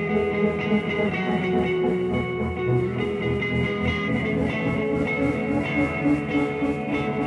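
Psychedelic rock band playing live, an instrumental passage of electric guitar with effects over drums and steady cymbal hits.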